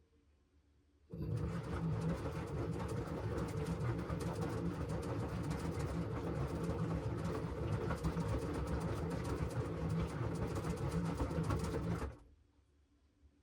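LG washing machine drum turning during the wash cycle: a steady motor hum with a dense rattle of the tumbling load. It starts about a second in and stops suddenly near the end, one of the machine's on-and-off drum rotations.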